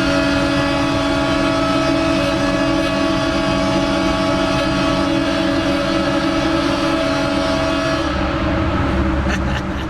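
Car sounds: a long, steady held tone over a low rumble, the tone stopping about eight seconds in.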